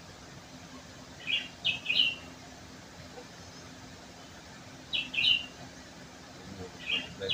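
A small bird chirping in short bursts of two or three quick notes, three times, over a faint steady low hum.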